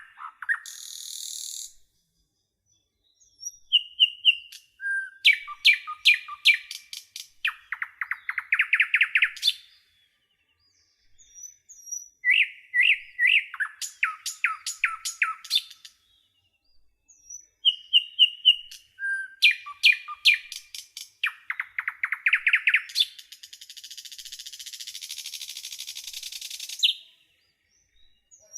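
A songbird singing in separate phrases of quick chirps and rapid trills, with pauses of a second or two between songs. One later phrase ends in a long buzzy hiss.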